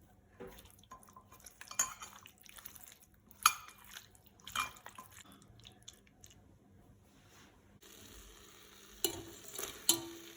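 A metal spoon clinking and scraping against a cooking vessel while spiced chicken marinade is mixed, in a few sharp clicks at irregular times. A faint steady hiss comes in near the end.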